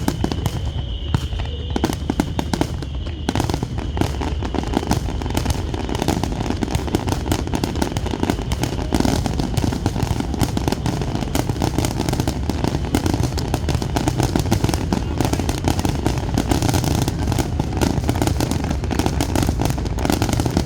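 Fireworks going off without a break, a dense run of rapid crackles and bangs.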